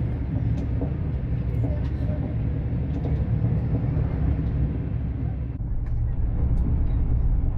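Passenger train running along the track, heard from on board: a steady low rumble with a few faint clicks. About two-thirds of the way through, the higher hiss drops away suddenly and the rumble grows a little heavier.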